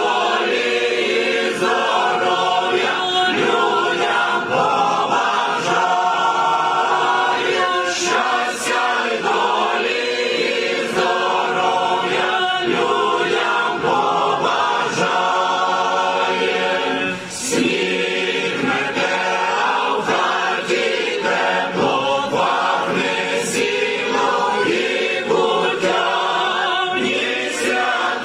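Church choir singing a Ukrainian Christmas carol (koliadka) in several voice parts.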